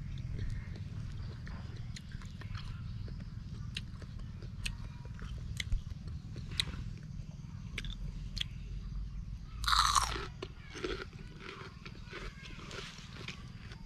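Crisp crunching bites and chewing of raw green ambarella fruit, scattered sharp crunches throughout. One louder burst of noise comes about ten seconds in, over a steady low rumble.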